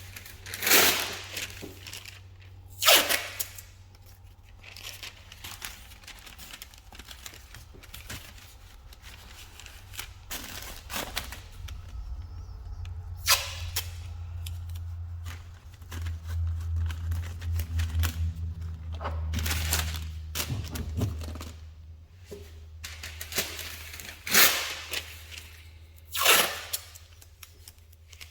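Masking tape and paper being torn and crumpled in several short, separate rips, over a steady low hum.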